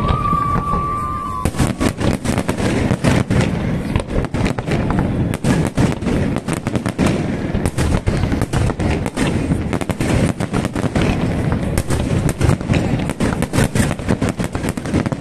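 Fireworks display: a rapid, unbroken barrage of bangs and crackling from aerial shells and rockets. A brief high whistle sounds in the first second or so.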